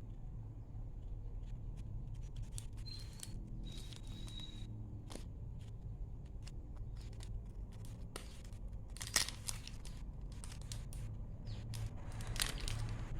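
Paper and sticker packaging being handled close up: scattered small clicks and rustles, with a louder rip about nine seconds in, over a low steady hum.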